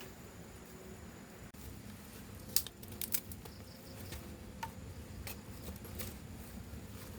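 A few light, sharp clicks and taps, loosest in a cluster about two and a half to three seconds in, over a steady low background hum.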